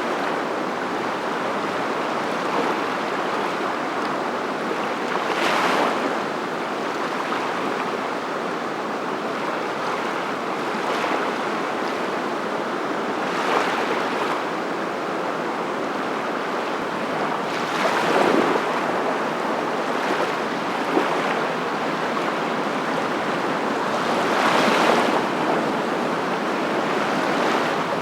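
Surf: a steady wash of water noise, with louder waves breaking every five to seven seconds.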